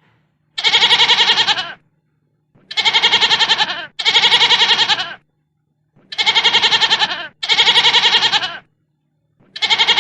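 Sheep bleating: five long quavering bleats, mostly in close pairs, and a sixth starting right at the end.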